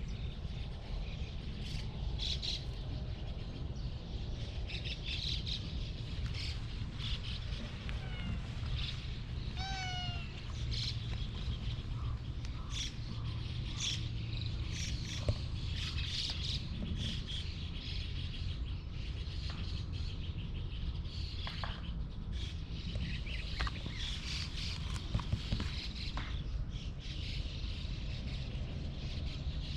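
Brown-and-white cat meowing: a couple of short, falling meows about a third of the way in, over a steady low outdoor rumble and scattered high chirps.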